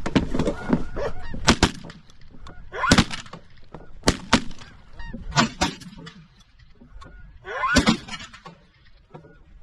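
Snow geese honking over a decoy spread, broken by a volley of shotgun blasts, several of them in quick pairs from two guns firing together.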